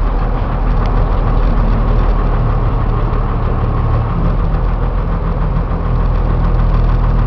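Cummins diesel engine of a Freightliner step van idling steadily.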